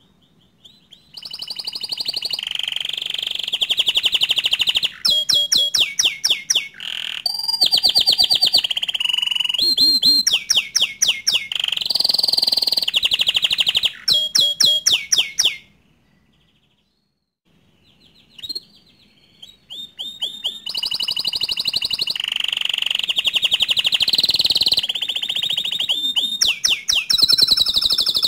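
Bottle-green domestic canary singing: a long rolling song of fast trills and rapidly repeated sweeping whistled notes, in two long phrases with a pause of about two seconds in the middle.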